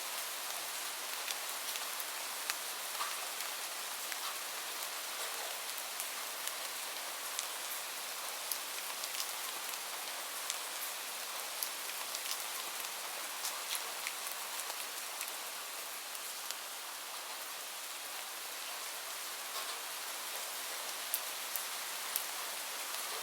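Steady rain falling on a hard surface: an even hiss with many single drops ticking sharply through it.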